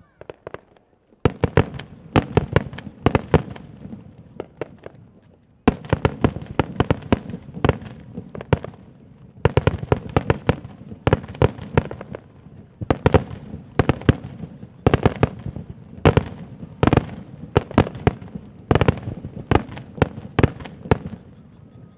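Fireworks display: volleys of aerial shells bursting in rapid succession, many sharp bangs close together. They start about a second in and ease briefly around five seconds in before picking up again.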